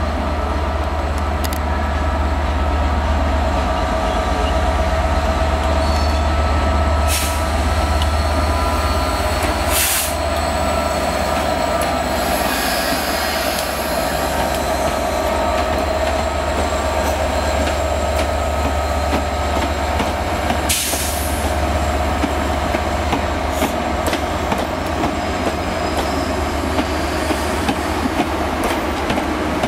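Class 67 diesel locomotive hauling passenger coaches slowly past, with a steady low engine drone and wheels squealing on the curved track. A few sharp clacks come from the wheels over the rails.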